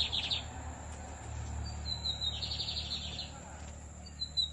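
Lined seedeater (bigodinho) singing: each phrase opens with a few short high notes and runs into a fast buzzy trill. One phrase ends just at the start, a full phrase comes about two seconds in, and the next begins near the end.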